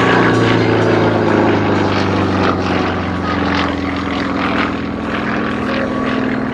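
Sukhoi SU-31's nine-cylinder radial engine and propeller droning loudly through an aerobatic manoeuvre, the engine note easing slightly lower as it goes.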